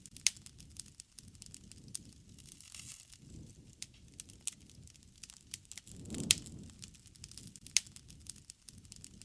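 Wood fire burning: a low, soft rumble of flames with frequent sharp crackles and pops from the burning wood, the rumble swelling and a few louder pops coming about six seconds in.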